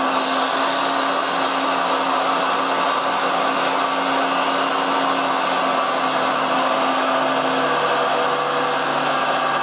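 Small electric motors of radio-controlled model construction machines running steadily with a continuous whine. One tone drops slightly in pitch about three-quarters of the way through.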